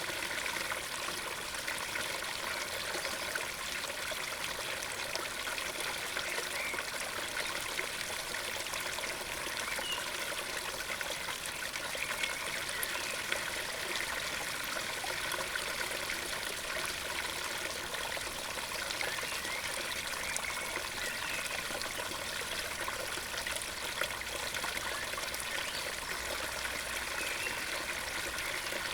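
Osówka stream rushing steadily into a pond, a continuous even flow of water.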